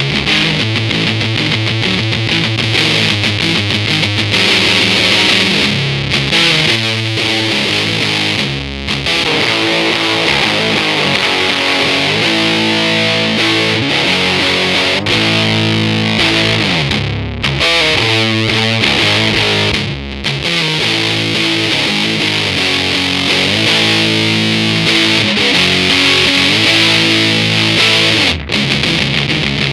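Electric guitar played through a Big Muff-style fuzz pedal with its gain at maximum: thick, saturated, sustained chords in a repeating riff, with a few brief breaks between phrases.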